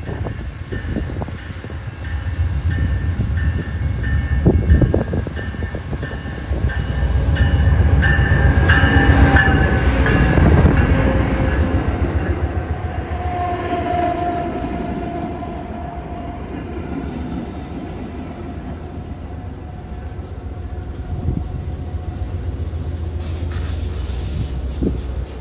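Train passing close by: a steady rumble of the cars rolling on the rails, loudest about eight to eleven seconds in, with thin high wheel squeals.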